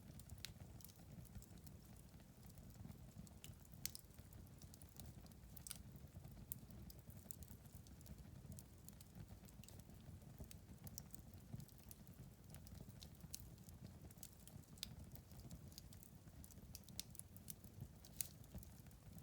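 Faint wood fire in a fireplace crackling, with frequent irregular sharp pops over a low, steady rumble of the flames.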